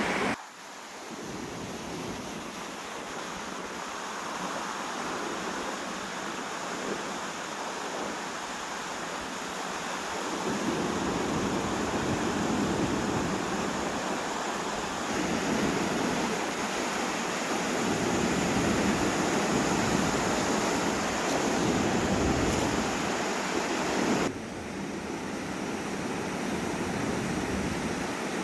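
Great Lakes waves washing on the beach, mixed with strong wind buffeting the microphone in low, gusty rumbles. About four seconds before the end the rumble drops away suddenly and the level falls.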